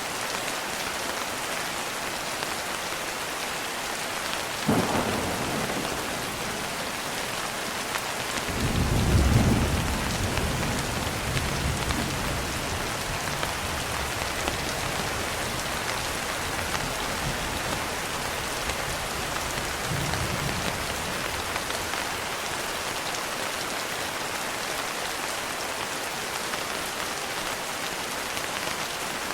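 Steady heavy rain with thunder: a sharp crack about five seconds in, then a louder, deep rumble a few seconds later that slowly dies away, and a softer rumble about twenty seconds in.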